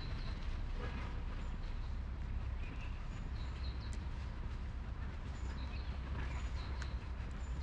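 Small birds chirping now and then in park trees, short high calls scattered through, over a steady low rumble.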